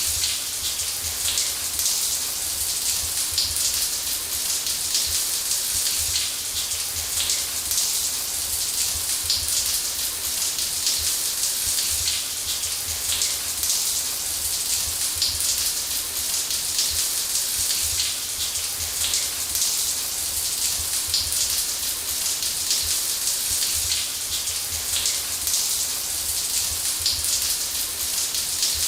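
Shower water running steadily, spray hissing and pattering on a surface.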